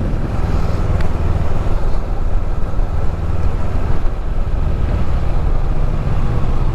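Motorcycle under way at road speed: a steady, heavy low rumble of engine and rushing air.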